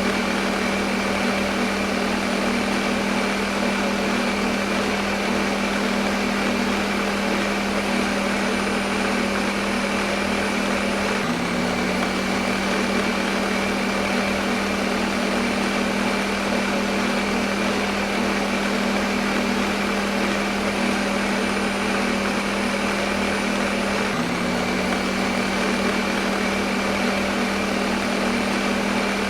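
Electric kitchen blender motor running continuously at one steady speed: a constant hum under a dense, even whir. The hum jumps slightly in pitch about eleven seconds in and again near twenty-four seconds.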